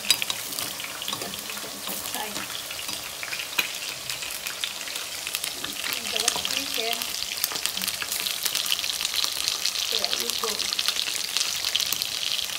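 Potato slices deep-frying in hot oil, then chicken pieces frying in oil in a wok: a steady crackling sizzle that grows louder about halfway through. There are a few sharp clicks of a metal spoon or spatula in the first half.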